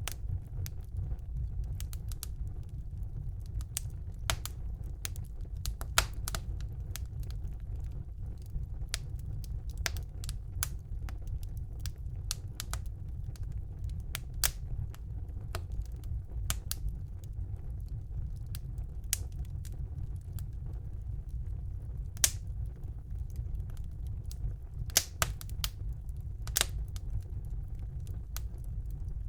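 Wood fire burning in a fireplace: a steady low rumble of the flames with irregular crackles and sharp pops, a few louder ones scattered through.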